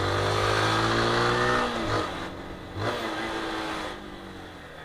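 Single-cylinder motorcycle engine on the move: it pulls up in pitch under throttle for about a second and a half, then eases off and settles to a lower, quieter run.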